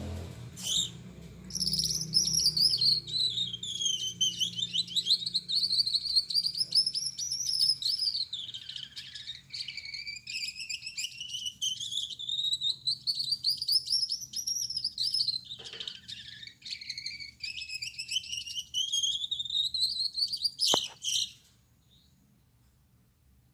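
Male Gouldian finch singing one long, buzzy song that wavers up and down in pitch for about twenty seconds, ending with a couple of sharp clicks.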